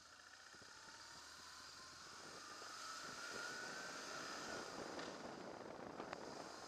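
Motorcycle engine pulling up through the revs as the bike accelerates, its note rising over about four seconds, with rushing wind and road noise growing louder.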